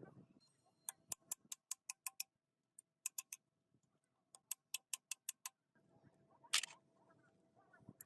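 Sharp ticking clicks in three quick runs of about six a second, then a single louder noisy burst near the end.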